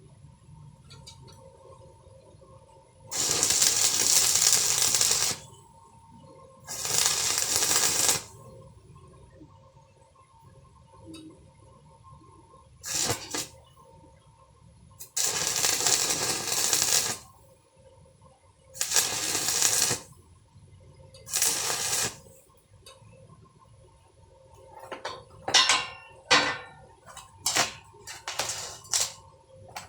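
Welding arc crackling in six short bursts of one to two seconds each, with pauses between them, then a quick run of sharp clicks and taps near the end.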